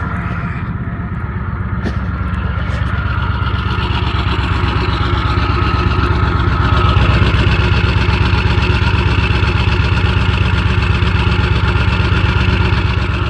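Ford 7.3 Power Stroke V8 turbo-diesel in a 2001 F-350 idling steadily at its exhaust just after a cold start at −14 °C, with no block heater plugged in. It gets a little louder from about four seconds in.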